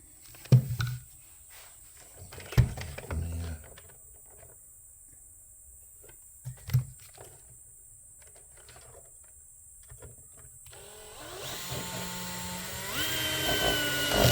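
Electric drill-driver spinning up with a rising whine, then running steadily as it drives a screw, its clutch set low to avoid stripping the screws. Before it, a few light clicks and knocks of handling parts.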